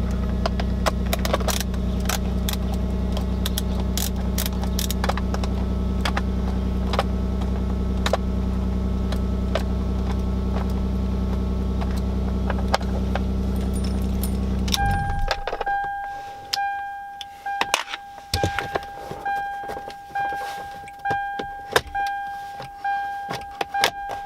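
Lexus GS300's inline-six engine idling steadily, with scattered clicks and rattles of handling, then shut off about fifteen seconds in. After it stops, the car's warning chime dings repeatedly, about once a second.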